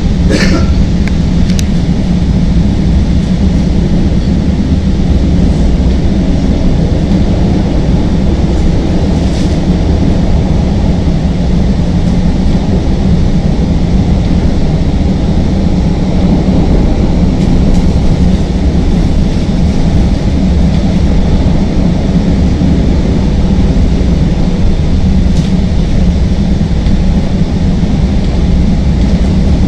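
CTA Green Line elevated train running between stations, heard from inside the car: a loud, steady rumble of wheels on rail and traction motors. A single click comes about half a second in.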